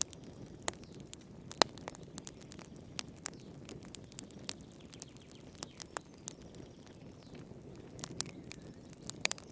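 Wood fire in a fireplace crackling: irregular sharp pops and snaps over a low, steady rush of burning.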